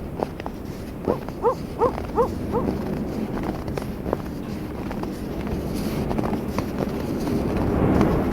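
Footsteps crunching on snow, with an animal giving a quick run of four or five short hooting calls about a second in. Wind swells near the end.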